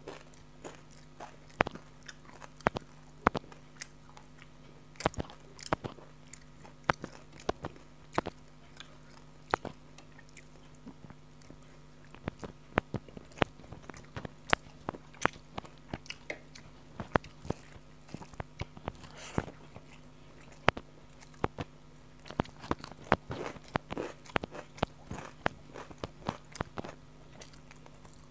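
Close-miked mouth sounds of a person eating rice and curry by hand: wet, irregular chewing clicks and smacks, with a faint steady hum underneath.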